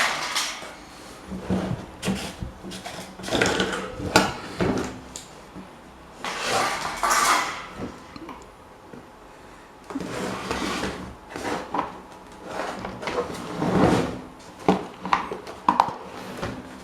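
Parts of an old rusty electric desk fan being handled and worked on: irregular scraping, rattling and knocking in short spells with brief pauses between.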